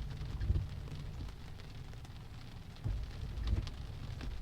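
Rain falling on a car's roof and windshield, heard from inside the cabin, over a steady low rumble.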